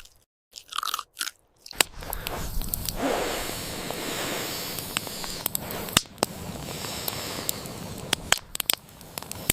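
Crunchy biting and chewing, heard as scattered sharp clicks. From about two seconds in, a steady noise haze runs underneath.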